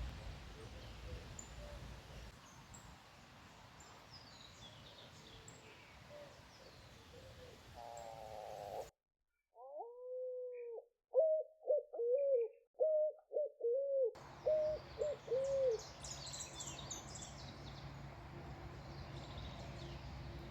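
Small birds chirping over a steady outdoor background. About nine seconds in, the background drops out and a series of about six short, low, pitched calls follows, the first one longer. Then the chirping and background return.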